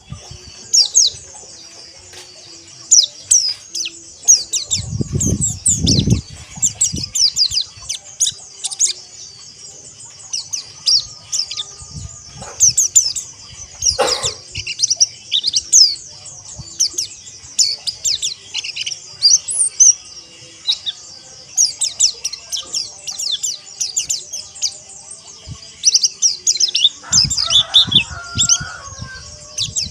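A flock of white-eyes (pleci) chattering together in dense, rapid high chirps and trills. A few low thuds break in about five seconds in and again near the end.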